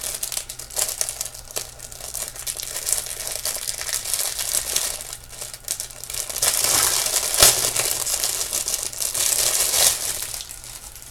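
Packaging crinkling and rustling as jewelry is unwrapped by hand, in uneven bursts with small clicks and one sharper click about seven seconds in.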